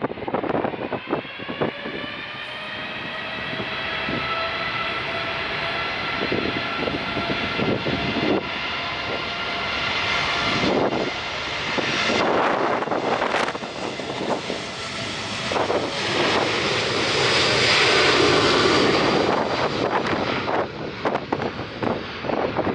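Airliner's engines passing close by: a whine of several steady tones over a broad rush that builds to its loudest about three-quarters of the way through. Gusts of strong wind buffet the microphone throughout.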